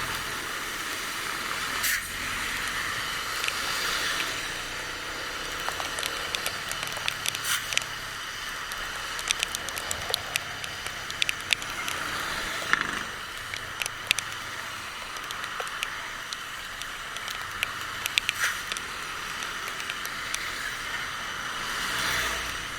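Steady wind and road noise of a motorcycle ride in the rain, with scattered sharp ticks of raindrops striking the microphone, thickest in the middle stretch.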